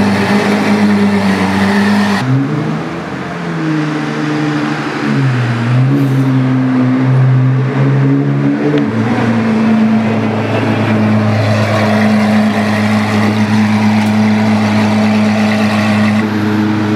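The Apollo IE's Ferrari V12 engine running. Its note shifts abruptly about two seconds in, rises and falls for several seconds, then settles back to a steady idle.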